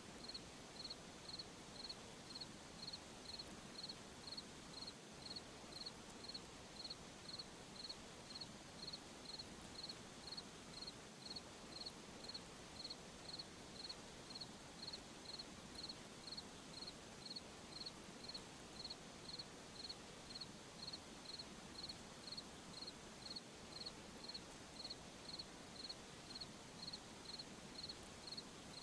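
Cricket chirping faintly, an evenly spaced high chirp about twice a second, over a steady soft hiss of night ambience.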